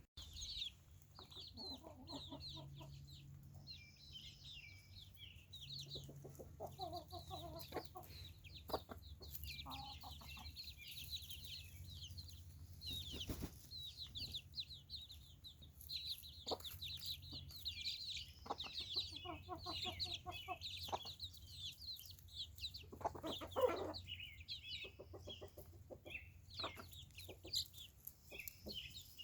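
Chickens clucking in short runs every few seconds, faint, over constant high-pitched bird chirping.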